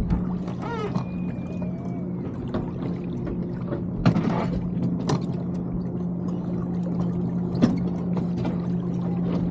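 Water washing along the hull of a sailing keelboat under way, with scattered clicks and knocks from the boat's fittings and a steady low hum.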